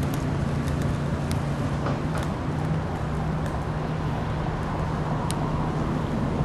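Steady rumble and low hum of an Amtrak Coast Starlight train, with scattered light clicks.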